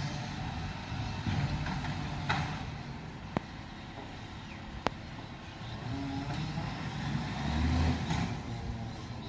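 Heavy garbage truck's diesel engine running, with two sharp clicks about three and a half and five seconds in, and the engine swelling briefly louder near the end.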